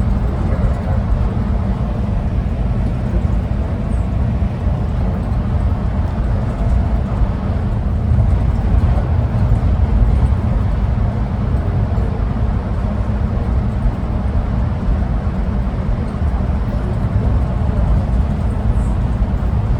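Inside the cabin of an automated airport people-mover train running between stations: a steady, deep rumble of the moving car.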